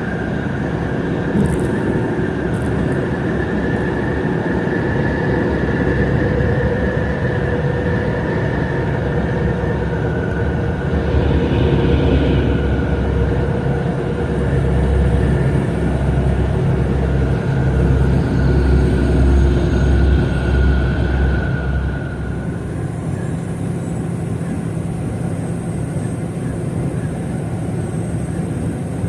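Heavy livestock truck running on the road, a steady engine and road sound that grows louder for several seconds in the middle and then eases back.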